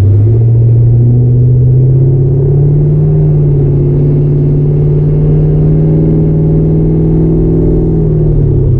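LS-swapped V8 in a 1955 Chevy 210 wagon accelerating hard: its note rises over the first few seconds, holds steady, then eases off near the end.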